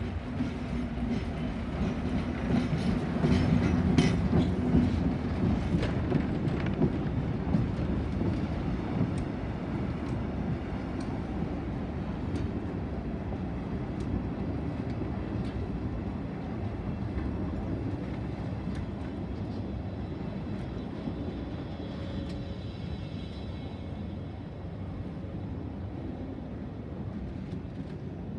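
Three-axle diesel locomotive passing slowly close by with its engine running, loudest about four seconds in. Its train of vintage passenger coaches follows, wheels clicking over the rail joints, the sound slowly fading.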